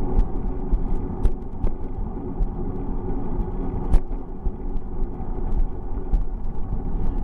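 Riding noise from a moving bicycle: a steady low rumble of road vibration and air rushing past, with scattered rattling clicks and one louder knock about four seconds in.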